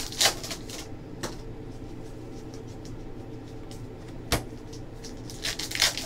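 Basketball trading cards being handled on a table: scattered light rustles and taps, one sharp tap about four seconds in and a quick cluster of rustling near the end, over a steady low hum.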